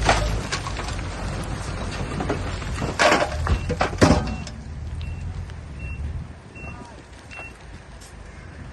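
Heavy diesel machinery running with a low rumble, with loud knocks right at the start and about three and four seconds in. A few short high beeps follow as the rumble fades.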